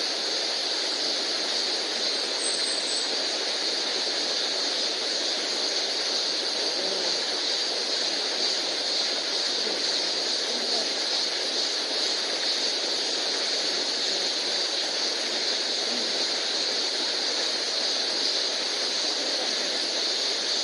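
Steady rushing of a mountain stream, an even wash of water noise with no change in level. A brief high chirp sounds about two seconds in.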